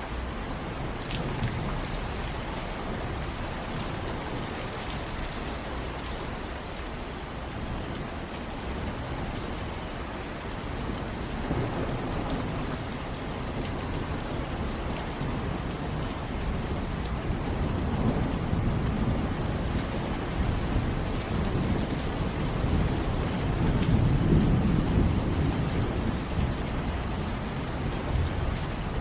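Steady rain falling, with individual drops ticking, and low rolling thunder that builds through the second half, loudest about three-quarters of the way through.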